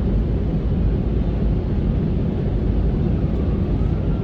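Steady low rumble of cabin noise inside an Airbus A350 airliner in flight: its engines and the airflow around it.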